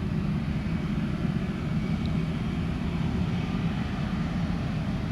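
Steady low rumble of jet aircraft engines.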